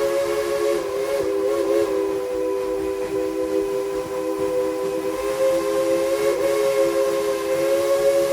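Steam locomotive whistle of Tweetsie Railroad's #190, held in one long blast: several notes sounding together as a steady chord, wavering slightly in pitch about a second in and again past the middle.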